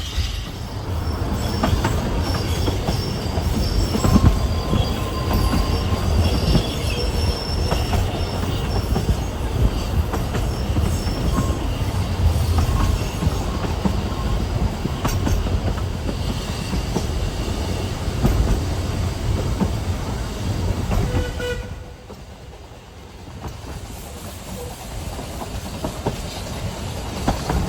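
Narrow-gauge train running, a steady rumble of wheels on rail with thin high wheel squeal in the first several seconds. The level drops briefly about 22 seconds in, then the running resumes.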